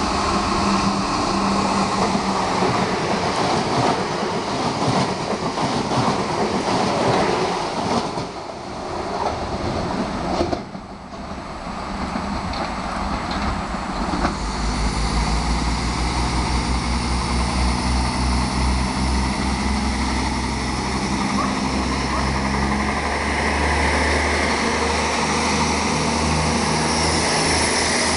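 Passenger train running through the station: rushing wheel and rail noise at first. From about halfway, a diesel multiple unit's engine runs with a steady low rumble as the train pulls in past the platform.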